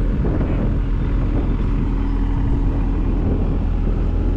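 Backhoe engine running steadily while a fence post is pushed into the ground.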